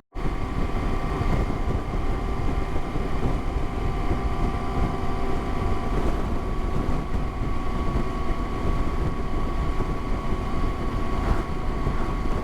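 Motorcycle engine running at a steady cruising speed, its pitch holding even, with heavy wind rush on the microphone.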